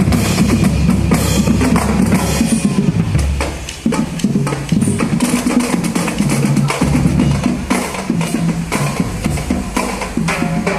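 Marching band percussion playing a fast, dense pattern of snare drums over bass drums, with a brief drop in loudness a little before four seconds in.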